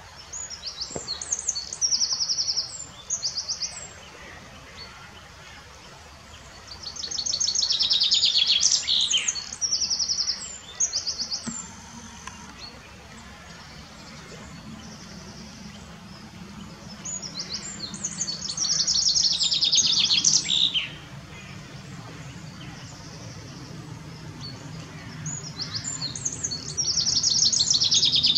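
A songbird singing high, rapid trilling phrases in four loud bouts several seconds apart, over the steady rush of shallow river rapids.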